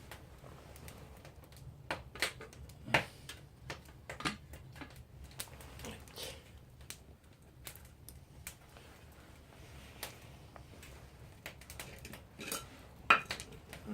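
Metal cookware being handled: scattered clinks and knocks of a pot or kettle being set up to boil water, with the loudest knock near the end.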